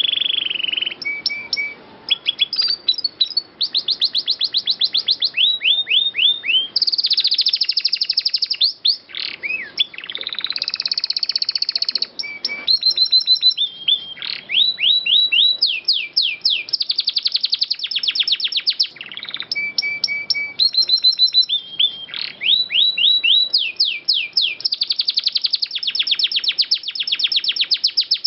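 Domestic canary singing continuously in long, rapid trills (rolls) of repeated sharp notes, phrase after phrase with only brief breaks.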